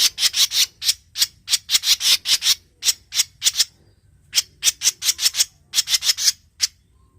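Cucak jenggot mini (brewes mini) calling: a fast run of harsh, rasping notes, about four to five a second. The notes come in two bouts with a short break just before the middle and stop near the end.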